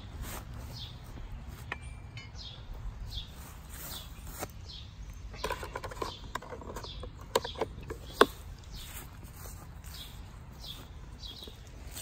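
A bird calling over and over, a short falling chirp roughly every two-thirds of a second. A few sharp clicks and knocks come a little past halfway, the loudest about eight seconds in.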